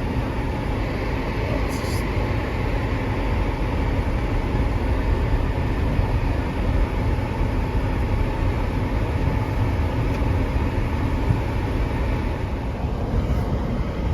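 Steady road and engine rumble heard from inside a moving car's cabin, with no break or change.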